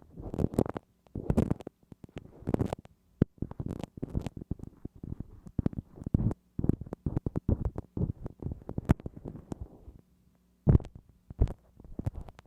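Bamboo ear pick scraping and rubbing inside the ear of a binaural microphone, in quick irregular crackly strokes with sharp clicks. There is a short pause about ten seconds in, then two strong strokes.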